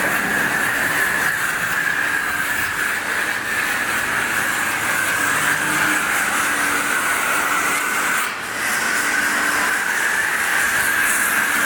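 High-pressure wand at a car wash spraying water onto a car: a steady hiss that dips briefly about eight seconds in.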